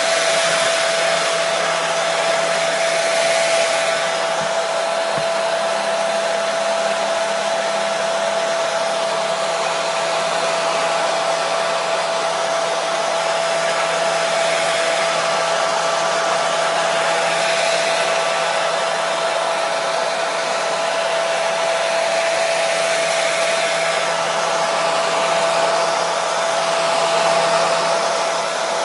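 Hair dryer running continuously: a steady airy rush with a constant whine from its motor and fan.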